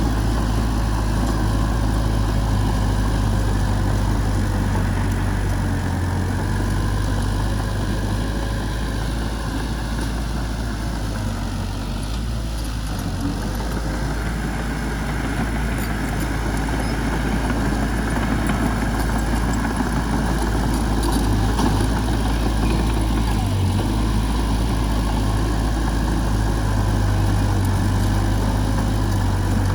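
Heavy machinery's diesel engine running steadily with a deep hum, easing slightly about twelve seconds in and then picking back up.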